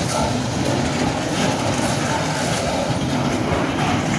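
Freight train of high-sided box wagons rolling past close by, a steady, continuous noise of wagon wheels running on the rails.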